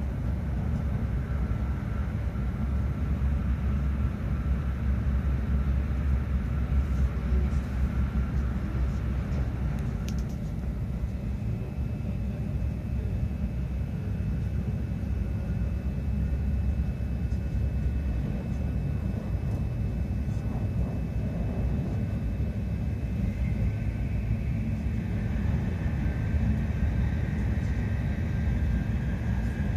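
Steady low rumble of a Shinkansen running at speed, heard inside the passenger cabin, with faint steady high whining tones above it that shift in pitch about a third of the way in and again near the end.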